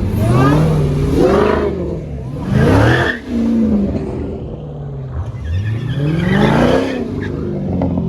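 A Dodge SRT's Hemi V8 engine being revved hard three times, its pitch climbing and falling back with each rev.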